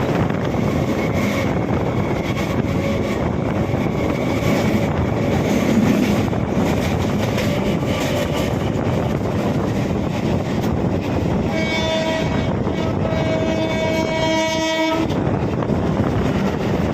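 Electric multiple-unit (EMU) suburban train running, with a steady rumble and rushing noise. A train horn sounds once for about three and a half seconds, starting about two-thirds of the way in.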